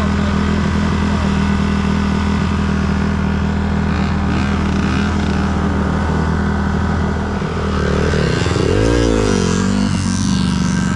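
Small motorcycle engine running at steady revs while riding. About seven and a half seconds in, the revs drop and then climb again.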